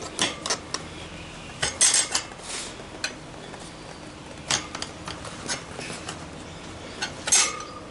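Metal tyre levers clinking and knocking against the motorcycle wheel rim as the front tyre bead is levered off by hand, in scattered irregular strikes, one near the end ringing briefly.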